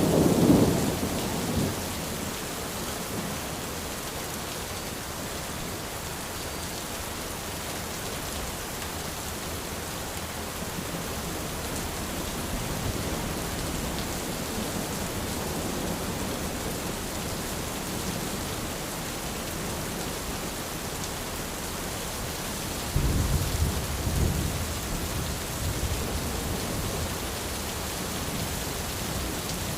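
Steady rain falling on an umbrella, with rolls of thunder: one rumble dies away in the first two seconds and another starts about three-quarters of the way through and lasts several seconds.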